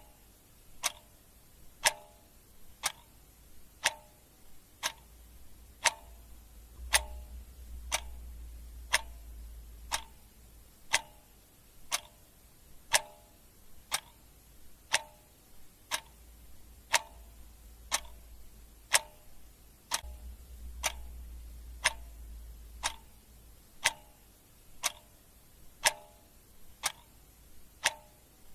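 A clock ticking steadily, about one tick a second, the ticks alternating slightly louder and softer in a tick-tock pattern.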